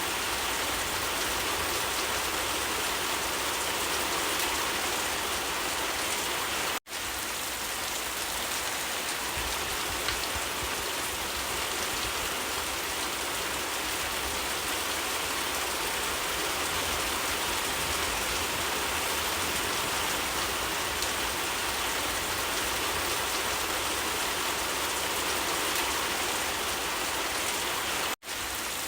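Steady rain falling, an even hiss of countless drops, which cuts out for an instant twice, about seven seconds in and near the end.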